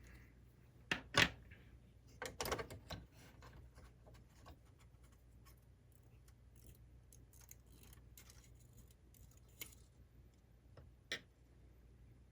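Sharp plastic clicks and light rattling of small parts being pulled loose and handled inside a laserdisc player's chassis. Two clicks come about a second in and a cluster follows a second later, then faint scattered ticks and two more clicks near the end.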